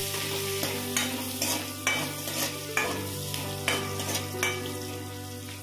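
Small dried fish frying in hot oil in a metal kadhai, sizzling steadily while a metal ladle stirs and scrapes the pan in regular strokes, about two a second.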